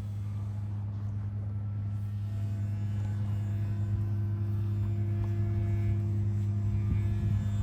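Electric motor and propeller of an RC glider running steadily under power, a low hum with a higher whine that slowly grows louder.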